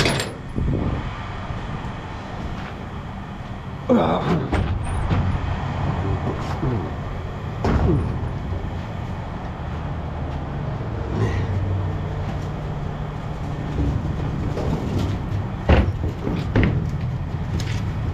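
A vehicle engine running steadily, with a few sharp knocks about four, eight and sixteen seconds in.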